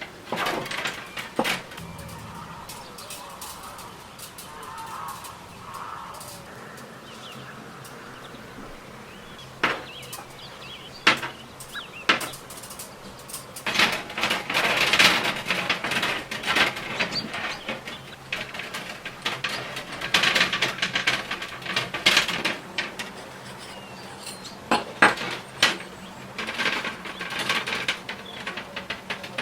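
Intermittent clicks, knocks and clattering scrapes of metal parts and tools being handled, coming in clusters with short quieter gaps.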